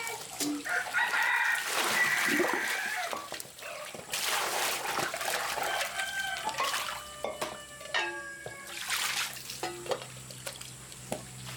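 Chickens calling, with a rooster crowing once early on.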